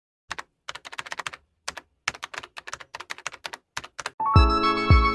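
Computer keyboard typing: a quick, uneven run of key clicks lasting about four seconds. Music with a heavy bass beat comes in near the end.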